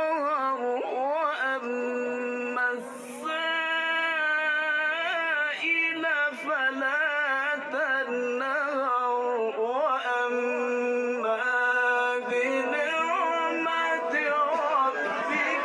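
Melodic Quran recitation: a single voice chanting in long, wavering held notes. Near the end, a murmur of voices starts under it.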